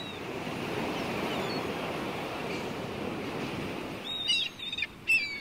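Sea surf washing in a steady, swelling rush. It fades about four seconds in, as a few short, falling bird calls sound.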